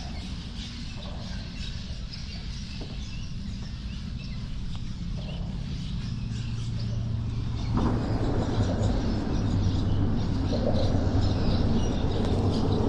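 Wind buffeting the microphone, with small birds chirping. About eight seconds in, the wind noise gets louder and a low steady hum joins it.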